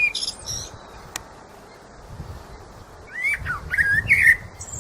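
Blackbird singing: short gliding whistled phrases, each followed by high squeaky twitters, in two bursts, the second starting about three seconds in, over a faint low rumble.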